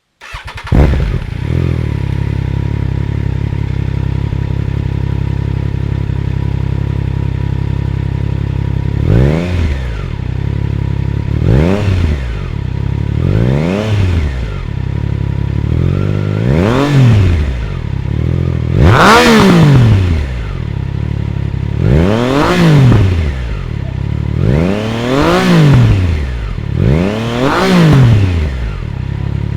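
Triumph Trident 660's three-cylinder engine, breathing through a freshly fitted Spark full exhaust system, starts up and idles steadily. From about nine seconds in it is revved in about eight quick throttle blips, each rising and falling in pitch; the one near the middle goes highest.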